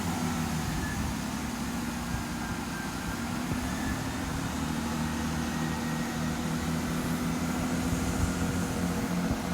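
Diesel passenger train's engines running with a steady hum as it pulls out of the station.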